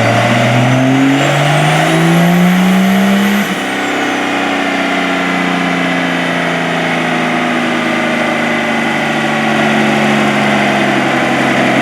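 A car engine accelerating, its pitch climbing for about three and a half seconds, then dropping suddenly and running on with a slowly falling pitch.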